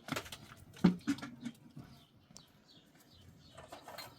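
A few sharp knocks and clatter in the first second and a half, the loudest just before the one-second mark, with faint bird chirps behind.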